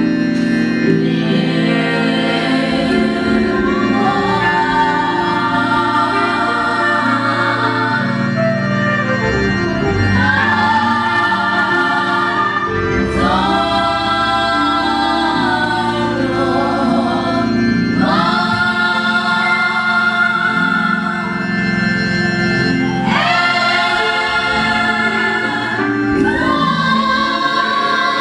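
A choir singing a gospel hymn in long sung phrases over sustained organ accompaniment.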